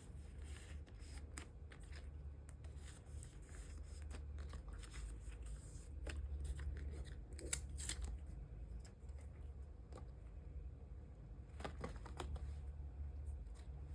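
Photocards and plastic card sleeves being handled: soft rustling, sliding and light clicks, with a few sharper crinkles about halfway through and again near the end, over a steady low hum.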